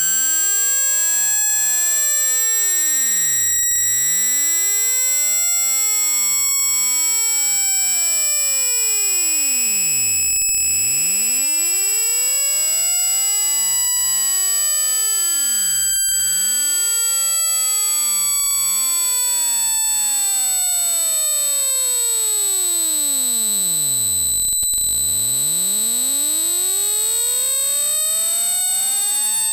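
Synthesized speaker-cleaning frequency sweep: a steady high pure tone with several fainter pure tones gliding slowly up and down across each other, like an electronic siren.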